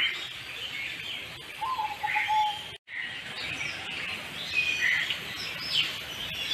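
Many birds chirping and calling at once, a dense chorus of short high chirps, with one short level whistle about two seconds in. The sound breaks off for an instant just before three seconds in.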